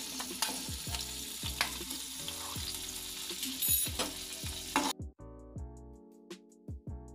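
Chopped potatoes sizzling as they fry in hot mustard oil, with occasional clicks as they are tipped in and stirred, over background music. About five seconds in, the sizzling cuts off suddenly and only the music remains.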